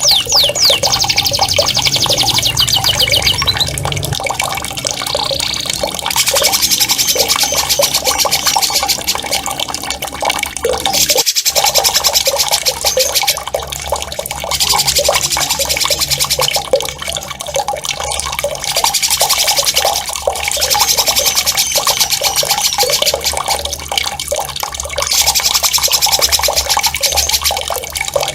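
Songbird song played as a training track: loud, sharp, very fast rolling trills in repeated bouts of a few seconds each, over a steady sound of running, gurgling water. The sound drops out briefly about eleven seconds in.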